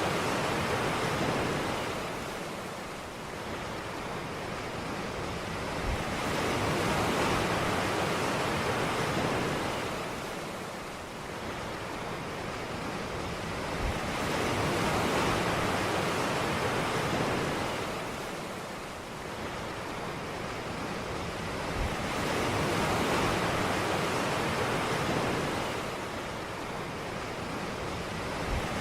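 Ocean waves breaking on a beach: a steady wash of surf that swells and falls back about every eight seconds.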